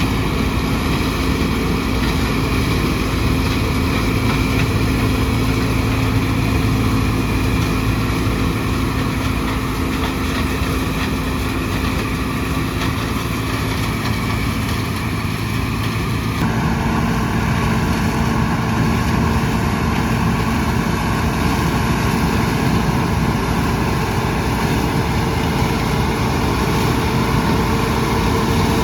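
John Deere 6600 combine engine running steadily. Its tone changes abruptly about halfway through.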